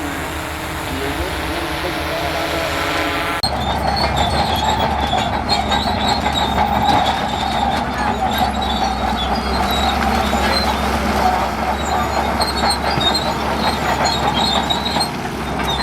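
Heavy earth-moving machine running, with high metallic squeaks and clatter. The sound changes abruptly a few seconds in, as at an edit, to a denser, louder noise.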